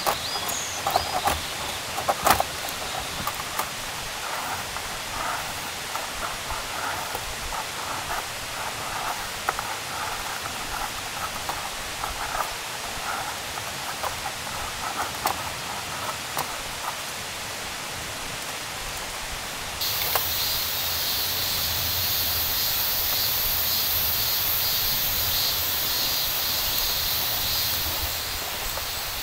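Irregular crackling and clicking for the first two-thirds. About two-thirds of the way in it switches abruptly to a steady, high-pitched chorus of summer insects buzzing.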